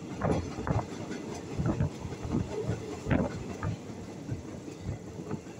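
Passenger train running along the line: a steady rumble with the wheels knocking over the track in a string of uneven thumps.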